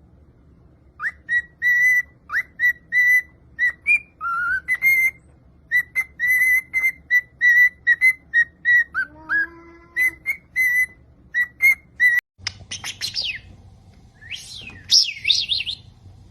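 Pet parrot whistling a quick run of short, clear notes held at one pitch, with a few upward slides and a brief lower warble. After a sudden break near the end, rapid high sweeping chirps over a low hum.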